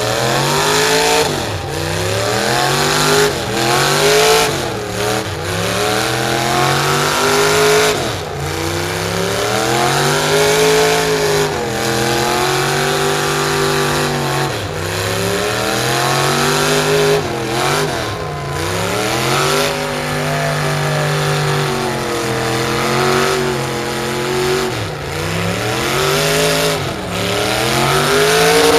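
A pulling truck's engine revving hard under load, its pitch climbing and dropping again every couple of seconds as the throttle is worked.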